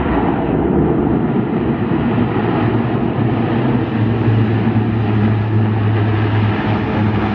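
Engines of a large aircraft running with a loud, steady drone; a low hum grows stronger about four seconds in.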